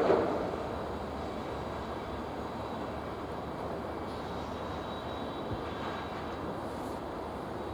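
Steady rolling rumble of a freight train's wagons running past on the track, with one sharp loud knock right at the start.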